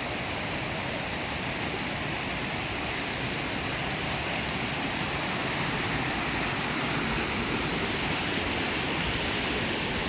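Steady rush of flowing water, growing a little louder about four seconds in.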